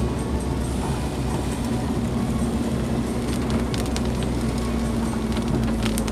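Car driving, heard from inside the cabin: a steady engine and road drone with a constant low hum. From about three and a half seconds in, scattered sharp ticks sound over it.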